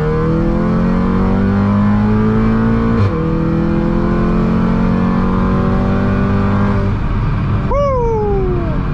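Tuned Volkswagen Golf GTI Mk7's turbocharged 2.0-litre four-cylinder under full-throttle acceleration, heard from inside the cabin. The engine note rises steadily, drops at a quick upshift about three seconds in, and climbs again until the pull ends about seven seconds in. A short falling tone follows near the end.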